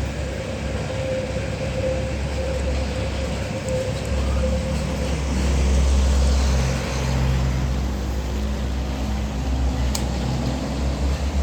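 Heavy diesel truck driving past in road traffic. Its low engine drone is loudest about halfway through, with a steady whine over the first few seconds.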